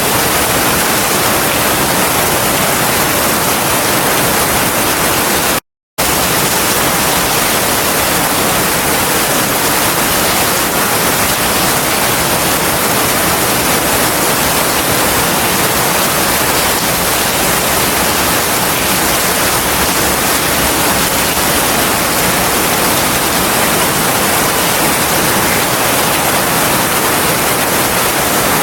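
Heavy rain falling as a steady, dense hiss with no separate drops or thunder standing out. The sound cuts out completely for a split second about six seconds in, then resumes unchanged.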